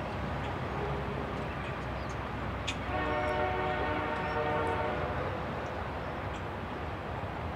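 Double-stack intermodal train rolling past, a steady rumble of wheels on rail with a few sharp clicks. About three seconds in, a distant locomotive horn sounds one chord for about two seconds.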